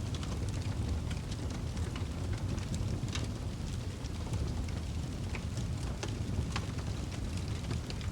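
Wood fire burning in a fireplace: a steady low rush of flames with scattered sharp crackles and pops throughout.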